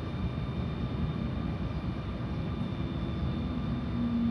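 Stadler GTW railcar heard from inside the passenger compartment: a steady low rumble with thin constant high whines over it, and a deeper hum that comes in about three seconds in.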